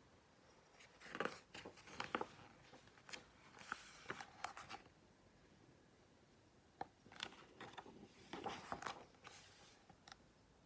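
Paper pages of a picture book being handled and turned: soft rustling and light taps in two short spells, one about a second in and one about seven seconds in.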